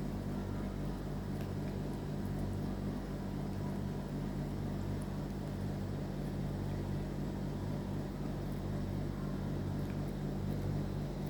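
Steady low mechanical hum that holds at an even level throughout.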